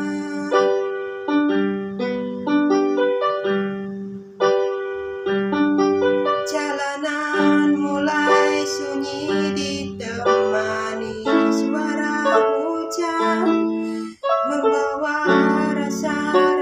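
Instrumental music: keyboard chords in the intro of a song, with bright, sharp strokes joining about six and a half seconds in.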